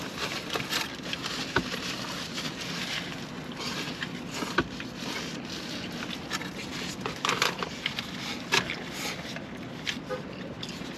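Food being handled and eaten: irregular small clicks, rustles and crunches over a steady background hum.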